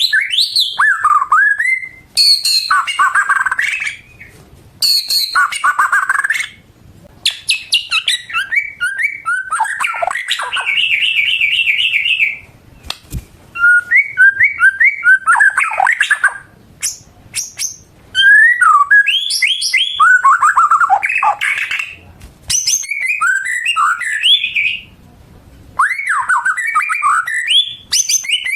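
White-rumped shama (murai batu) singing a loud, varied song of whistled phrases, sweeping notes and rapid trills, broken by short pauses every few seconds.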